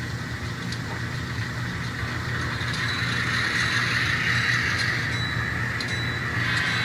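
Sound decoders in a consist of N scale model EMD diesel locomotives (GP38-2, GP15 and GP39-2s) playing the running sound of their diesel engines over a steady low hum. A hissing whine grows louder from about halfway through.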